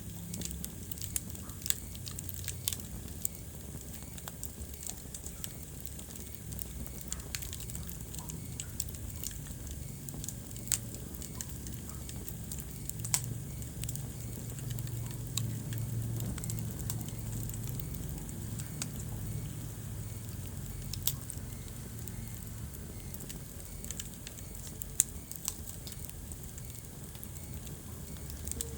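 Wood fire in a fireplace crackling, with frequent sharp pops over a low rumble that swells in the middle. The loudest single pop comes near the end.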